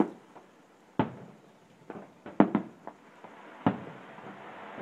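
Fireworks going off: a series of separate sharp bangs, about one a second, with two close together about halfway through, each dying away quickly.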